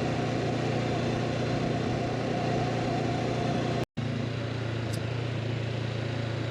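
Motorcycle engine running steadily while riding, with road and wind noise, cut by a brief total dropout about four seconds in before the same running sound resumes.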